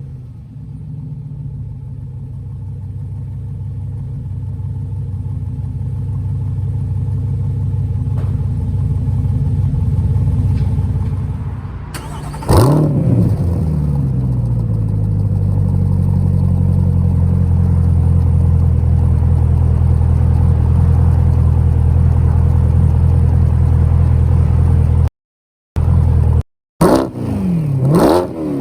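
C8 Corvette's 6.2-litre V8 through a prototype true-dual cat-back exhaust with two mufflers, idling steadily, revved sharply once about halfway through, then blipped twice near the end. The sound drops out twice briefly just before the last blips.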